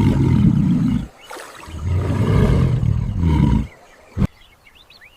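A large animal giving deep roaring calls, two of them with a short break between. Then a single sharp click and faint bird chirps near the end.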